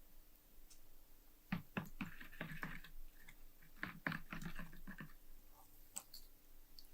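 Small metal parts of a lighter being handled: two short runs of quick clicks and knocks with some scraping, then a few light ticks near the end.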